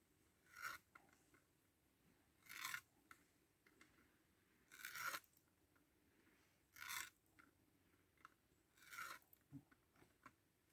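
Five faint, short scraping or rasping strokes, about two seconds apart, over a quiet background.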